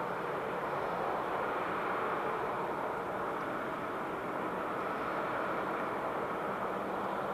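Airbus A321-211's CFM56 jet engines, a steady even rush without a break.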